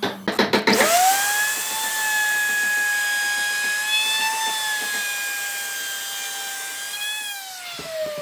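A few knocks, then an electric power tool's motor spinning up to a steady high whine. It runs for about six seconds and winds down with a falling pitch near the end.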